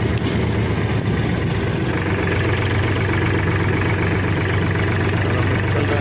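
A 4x4 farm tractor's diesel engine running steadily as the tractor is driven along, a constant low hum.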